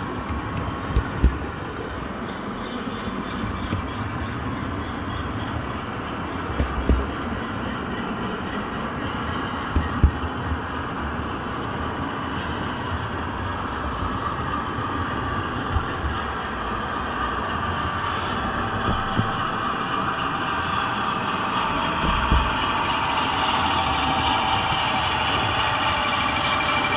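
Train running on rails, a steady rumble with occasional sharp wheel thumps over rail joints. The sound grows gradually louder, and a high ringing builds in the second half.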